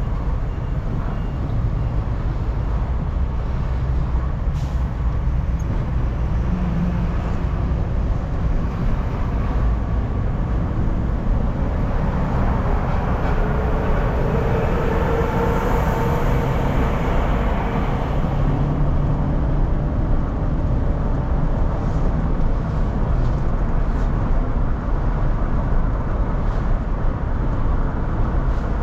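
Road noise inside a moving car's cabin: a steady low rumble of engine and tyres. About halfway through it swells for several seconds, with a faint whine rising and falling.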